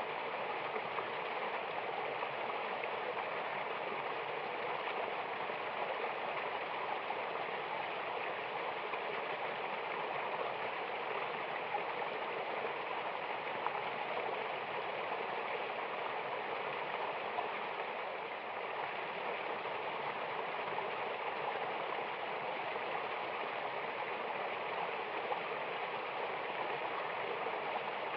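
Water of a mountain waterfall flowing steadily: an even, unbroken rush.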